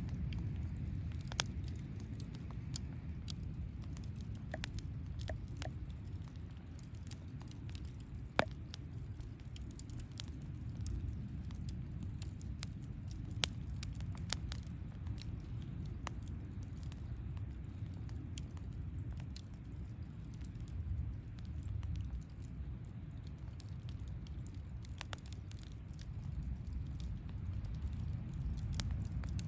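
Wood campfire burning: irregular sharp crackles and pops over a steady low rumble, with three louder pops standing out, about a second and a half in, about eight seconds in and about thirteen seconds in.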